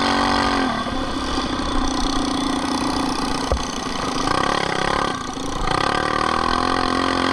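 Minibike engines running hard in a race. Their pitch drops as the throttle is eased, climbs again, and holds high near the end. A single sharp knock comes a little past halfway.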